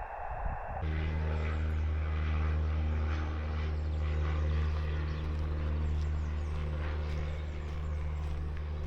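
A brief moment of radio-receiver hiss, then from about a second in a steady engine drone with a constant low pitch, with light scattered ticks over it.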